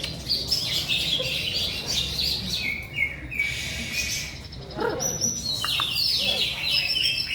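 Several caged songbirds singing at once, a dense, continuous stream of fast chirps and trills with no pause.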